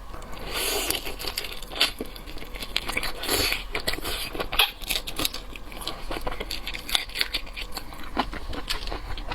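Close-miked seafood being eaten: crackling, tearing and crinkling as shellfish is broken apart and bitten, with a run of small clicks and chewing sounds.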